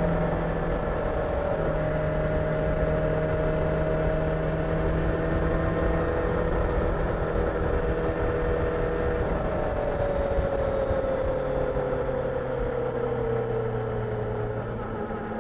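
Kawasaki Ninja 1000SX inline-four engine running at steady revs while riding, with wind and road noise. In the second half the revs fall gradually as the bike slows.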